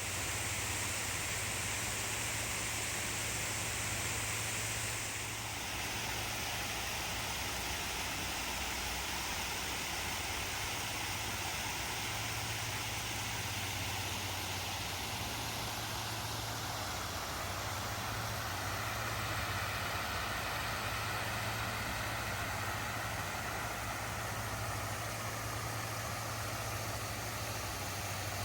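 Steady low hum of an idling vehicle engine under a broad hiss of noise.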